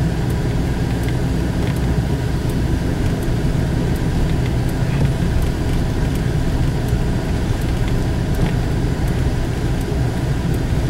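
Steady low rumble of a vehicle driving, heard from inside the cabin, with faint irregular ticks.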